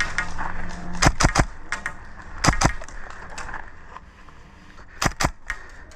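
Airsoft guns firing short bursts of two or three sharp snapping shots, with single shots in between.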